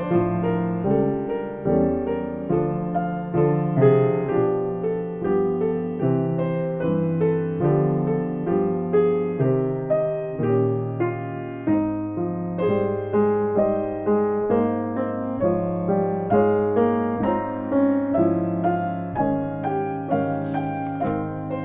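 Solo piano playing a gentle, flowing piece, with notes struck at an even pace of about two a second.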